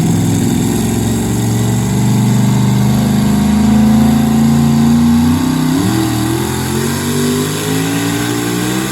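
Super modified two-wheel-drive pulling truck's engine running loud, its pitch creeping up, then dropping about five and a half seconds in and climbing again.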